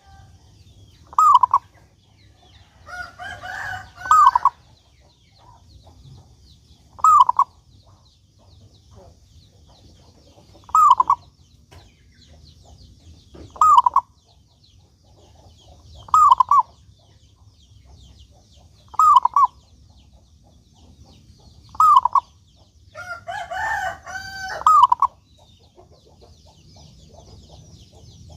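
Zebra dove (perkutut) cooing: a short two-part note about every three seconds. Two longer, fuller phrases come a few seconds in and again near the end.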